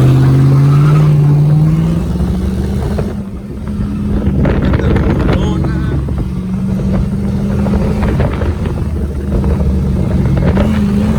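A road vehicle's engine accelerating, its pitch rising for the first couple of seconds, easing off about three seconds in, then running at a steady pitch.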